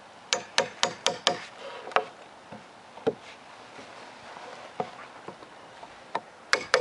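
Hammer knocking as nails are pulled from weathered cedar picnic-table boards with a hammer and nail puller. Sharp knocks come in a quick run of about six at first, then single knocks a second or more apart, and a close cluster near the end.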